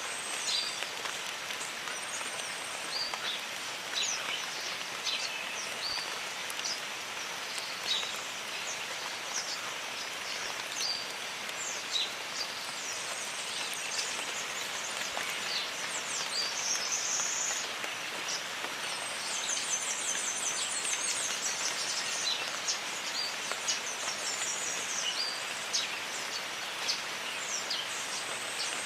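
Steady jungle rain with many birds chirping throughout in short, high calls, and a fast high trill from about twenty seconds in.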